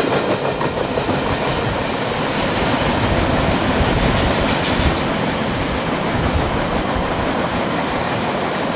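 Freight train's covered hopper cars rolling away on the track, their wheels clattering over the rail joints, the rumble slowly fading as the end of the train draws off.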